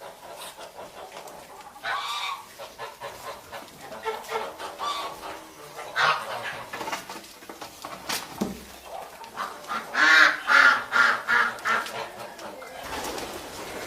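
Farmyard birds calling: repeated short calls, with a quick run of several loud calls about ten seconds in.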